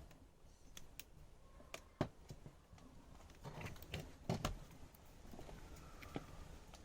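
Plastic casing of an Acer Aspire One 522 netbook being worked open by hand: scattered light clicks and knocks, the sharpest about two seconds in and a small cluster a little past the middle.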